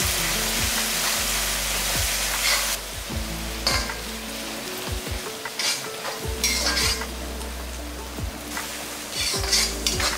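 Onions, herbs and ginger-garlic paste frying in oil in a kadai, sizzling while being stirred, with short scrapes of a utensil against the pan. The sizzle is loudest for the first few seconds, then settles lower between the scrapes.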